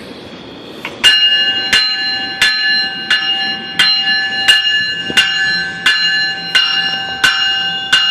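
Locomotive bell ringing steadily, about one and a half strikes per second, starting about a second in over a low rumble of rail traffic.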